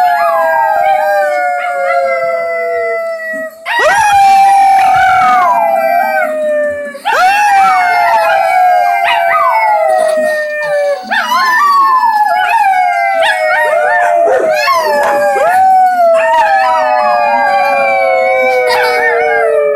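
Two dogs howling together: overlapping long howls that slide slowly down in pitch, a fresh howl starting every three to four seconds.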